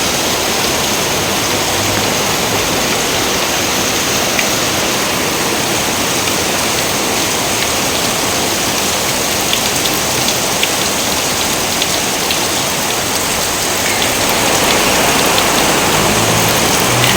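Heavy rain falling steadily: a dense, even hiss with scattered individual drop ticks, more of them in the second half.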